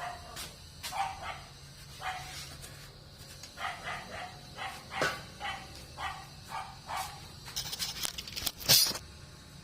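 A dog barking over and over, in single barks and quick runs. Near the end comes a short, loud rush of hissing noise, the loudest sound here.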